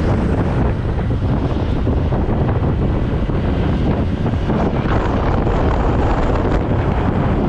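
Heavy wind rush and buffeting on the microphone of a moving scooter, loud and steady, in strong gusty wind.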